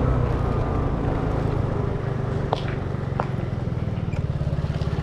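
Vehicle engine running with a steady, pulsing low rumble; two short sharp clicks about two and a half and three seconds in.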